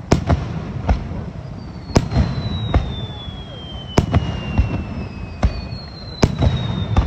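Aerial firework shells bursting in a rapid, irregular series of sharp bangs, some in quick pairs. Two long whistle-like tones slide slowly downward in pitch.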